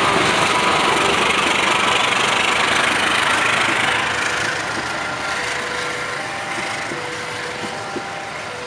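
Passenger train coaches rolling past on the rails in a steady rush, loud at first and fading from about four seconds in as the train moves away, with a couple of faint clicks near the end.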